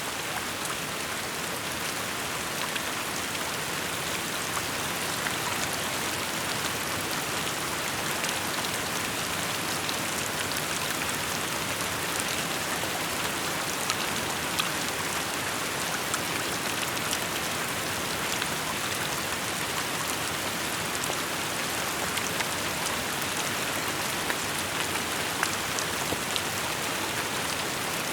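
Steady rain falling, an even hiss with many individual drops ticking on hard surfaces.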